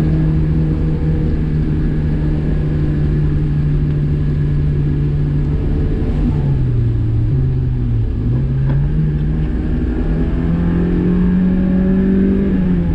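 Car engine and road rumble heard from inside the cabin while driving: the engine note holds steady, drops as the driver eases off about halfway through, then rises as the car accelerates and falls again near the end.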